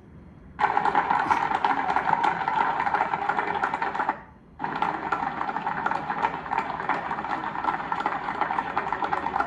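Dense, rapid clicking over a steady noise. It starts abruptly about half a second in, breaks off for a moment about four seconds in, then carries on.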